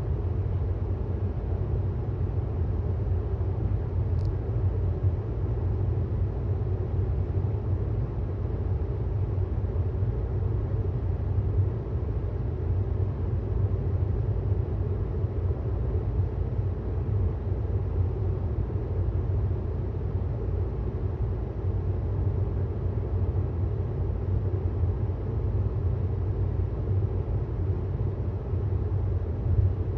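Steady low road and tyre rumble of a 2018 Tesla Model S 75D driving at speed; being electric, it has no engine note.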